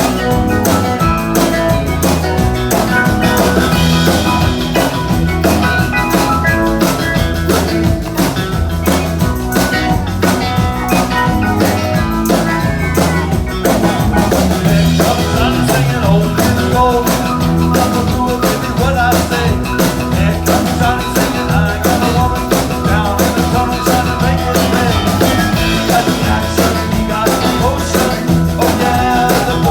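Live band playing rock-and-roll dance music, a drum kit keeping a steady beat under the melody.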